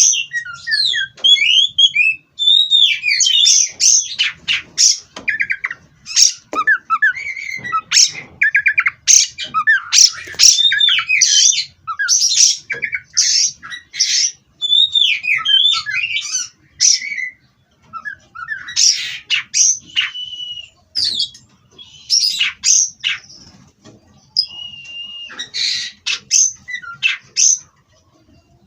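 Oriental magpie-robin (kacer) singing a long, varied song of gliding whistles, rapid chattering notes and harsh squawk-like calls, broken by short pauses.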